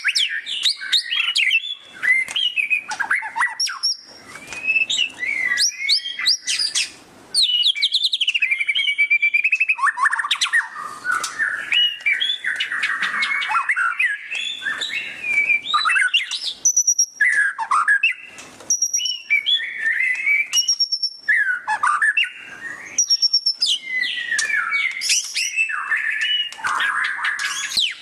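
White-rumped shama (murai batu) singing loudly in a fast, busy 'ngeriwik' chatter: a continuous, varied stream of quick chirps, trills and gliding whistles, broken by a few short pauses.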